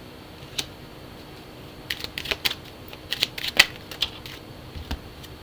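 Tarot or oracle cards being handled and shuffled: a run of sharp card clicks and snaps, one about half a second in, a quick flurry in the middle and a last one near the end.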